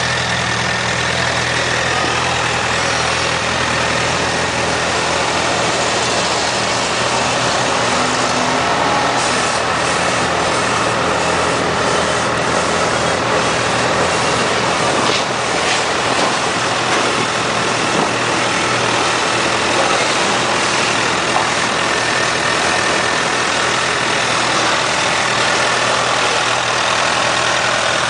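2008 Honda CBR1000RR's inline-four engine idling steadily.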